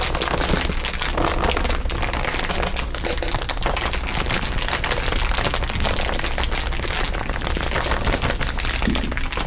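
Dense, continuous crinkling from several overlaid layers of crinkle recordings: a busy crackling patter of many small clicks with no pauses.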